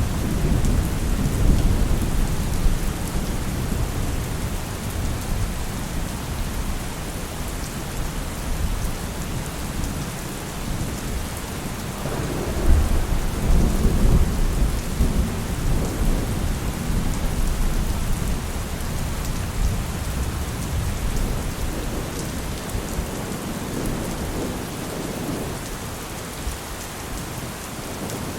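Heavy rain pouring steadily with thunder rumbling throughout. The loudest rumble swells up about 12 seconds in and slowly dies away.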